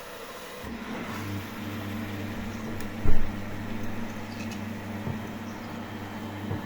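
Samsung washing machine starting up: a steady low motor hum begins under a second in and keeps running, with one sharp knock about three seconds in.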